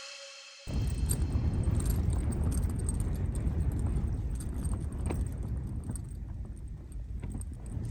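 The end of a music track fades out, then less than a second in, wind starts rumbling on the microphone, with scattered light clicks and taps over it.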